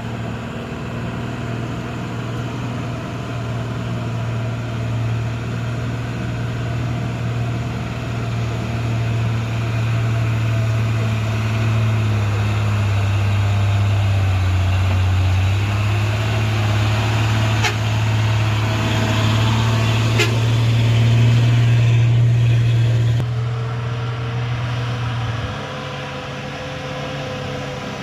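Heavy truck engine running on a steep climb, a steady low drone that grows louder for about twenty seconds and then eases off, after which a higher whine comes in. Two sharp clicks are heard midway.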